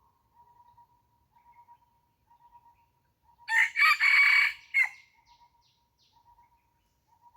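Red junglefowl rooster crowing once, a short crow of about a second and a half, starting about three and a half seconds in.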